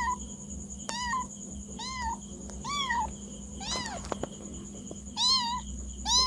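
Cat meowing repeatedly, a string of short rising-and-falling meows about once a second, seven in all.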